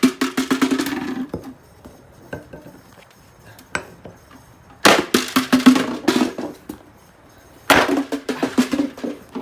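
Three bursts of rapid knocking, each about a second long, over a low ringing tone, with quiet between them.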